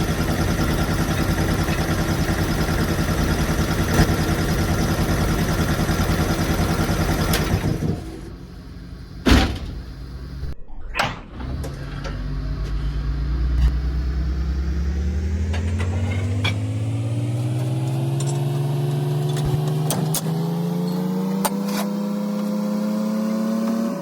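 A machine runs steadily, then stops about a third of the way in. After a couple of sharp knocks, a motor starts and its pitch climbs slowly and steadily until it cuts off at the end.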